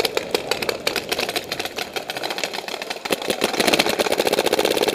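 Electronic paintball marker firing in ramping mode, a fast unbroken string of sharp pops at about a dozen shots a second.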